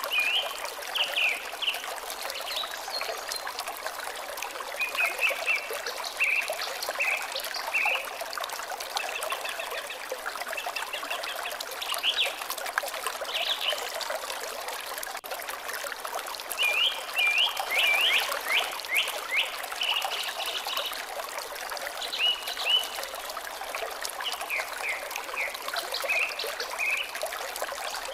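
Water trickling steadily, with small birds chirping in short, quick phrases that come and go throughout.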